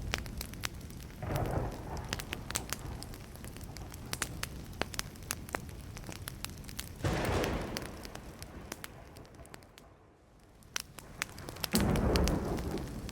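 Wood fire crackling, with many sharp pops throughout. There are three short, louder low rushes: about a second and a half in, about seven seconds in, and near the end.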